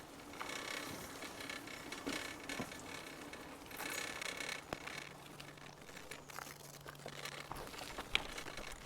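Faint footsteps and rustling over quiet open-air background, with a faint steady low hum about halfway through.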